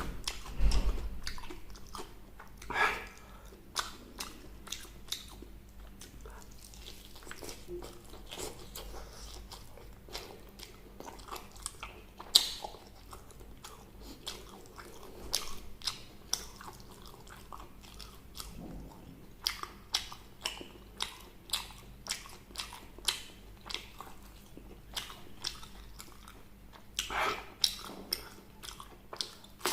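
Close-miked eating of fried chicken: crisp crunching bites and wet chewing, with sharp crackles throughout and louder crunches about a second in, near three seconds, around twelve seconds and near the end.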